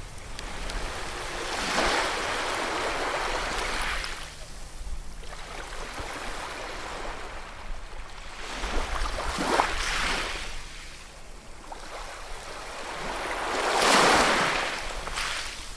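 Ocean surf: waves breaking and washing up the shore in three surges, about two, ten and fourteen seconds in, the last the loudest.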